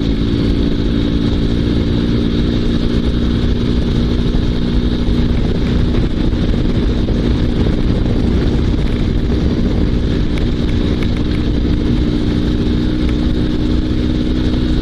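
Dnepr MT16 sidecar motorcycle's 650 cc boxer-twin engine running steadily while riding at an even speed, with a constant low rumble.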